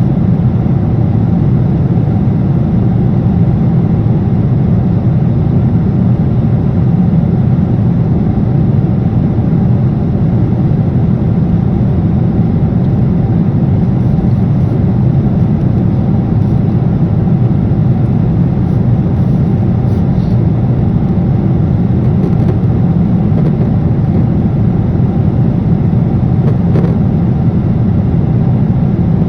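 Steady cabin noise of an airliner in cruise: an unbroken low roar of jet engines and airflow heard from inside the cabin.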